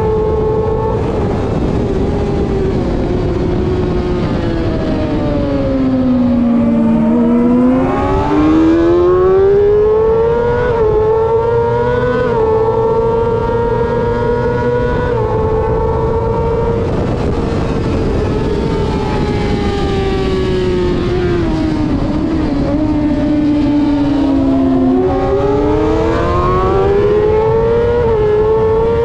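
Racing motorcycle engine at full race pace, heard from on the bike with wind rush. Its pitch falls as the rider brakes and downshifts into a corner, then climbs in steps through upshifts on the exit. This happens twice, the second slowdown starting a little over halfway through.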